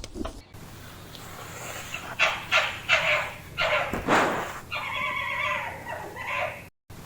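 A dog giving a quick series of short, sharp barks or yaps, then a longer drawn-out whining call.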